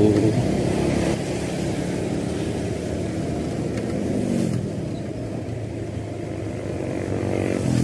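Motorcycle engine running under way, under a steady rush of wind and road noise.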